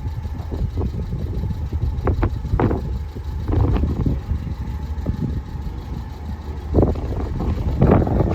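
Road traffic: a steady low engine rumble with irregular knocks and rushes, growing busier near the end.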